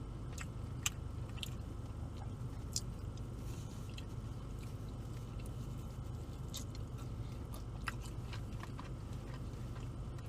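Close-up chewing and biting of pizza: scattered soft mouth clicks and smacks over a steady low hum.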